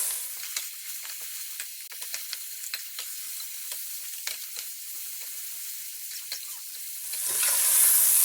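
Onions and a ground ginger, garlic, mint and coriander paste frying in oil, sizzling as they are stirred, with frequent light scrapes and taps against the pan. The sizzle is softer through the middle and grows louder again near the end.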